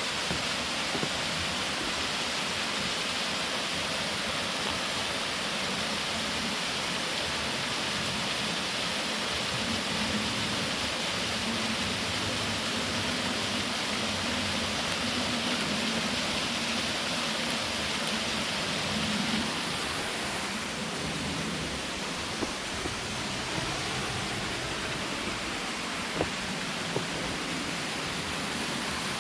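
Waterfall pouring into a valley stream, a steady rushing of falling water that turns a little duller about two-thirds of the way in.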